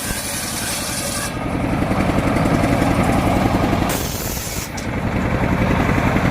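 Engine of a truck-mounted mobile circular sawmill running with an even low throb, getting louder about a second in and easing off again about four seconds in.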